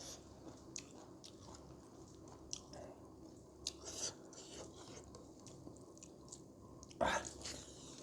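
A person chewing food up close: soft wet mouth clicks and smacks, with a louder smack about seven seconds in.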